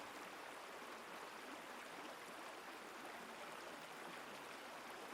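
Faint, steady hiss with no distinct events, like running water.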